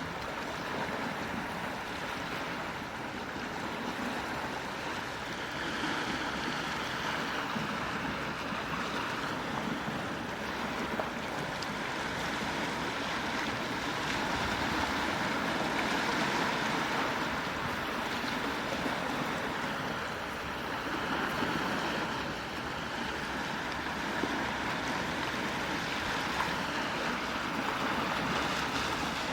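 Gentle ocean waves washing on the shore, a steady hiss of surf that swells and eases slowly every several seconds.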